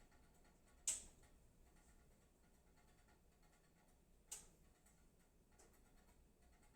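Two sharp clicks of computer keyboard keys being pressed, about three and a half seconds apart, the first the louder, in an otherwise near-silent room.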